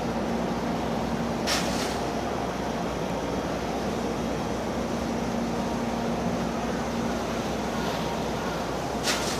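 Steady hum of a standing freight train at a station, with a constant low tone, broken twice by a short hiss of compressed air, about a second and a half in and near the end.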